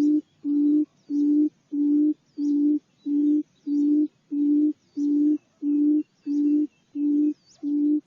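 Barred buttonquail's booming call: a low hoot repeated evenly about twice a second. It stops abruptly at the end.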